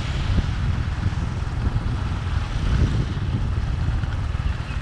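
Steady low rumble and road noise of a moving vehicle, heard from on board.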